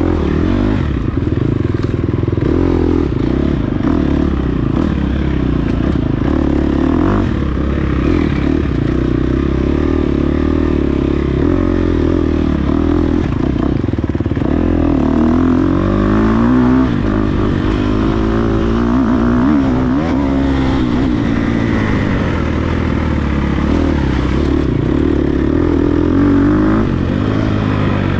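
Dirt bike engine ridden hard off-road, its pitch rising and falling again and again as the throttle is opened and closed through the gears.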